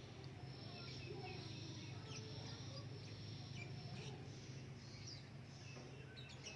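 Faint outdoor background: scattered short bird chirps over a steady low hum, with a thin high steady tone through the first half.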